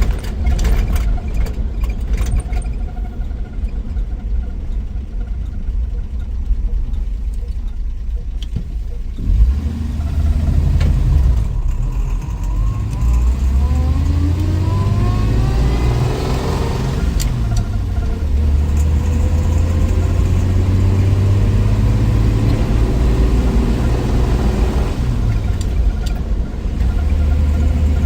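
1963 Willys Wagon's 230 Tornado overhead-cam straight-six driving along with steady road rumble. About twelve seconds in, the engine note climbs as it accelerates, drops at a gear change a few seconds later, then runs on at a steady pitch.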